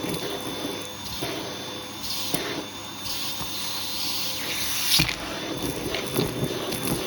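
Hoover vacuum cleaner running with a steady motor whine, its hose tool sucking and rustling unevenly over the pile, with a sharp knock about five seconds in.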